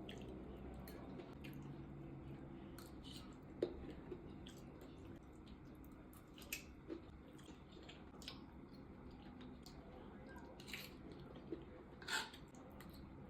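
Quiet eating sounds of a person chewing food: soft wet squishes and scattered mouth clicks and smacks, with a few louder smacks spread through.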